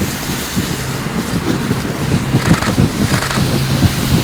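Engine running steadily under a rush of wind-like noise, with a held low hum and a fast low flutter.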